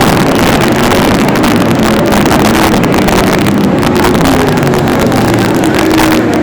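A field of wingless sprint cars racing under green at full throttle, several engines running loud together with their pitches rising and falling as they pass, with a harsh crackle and some wind noise on the microphone.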